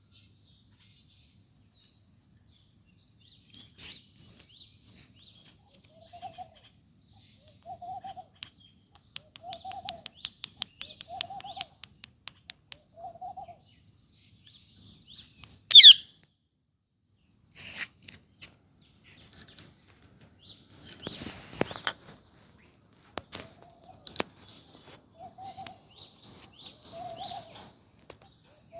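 Pet parrot and other birds calling: high chirps come and go, short low notes repeat about every one and a half to two seconds, and one loud shrill squawk sounds about sixteen seconds in. A quick run of clicks comes a little after twenty seconds.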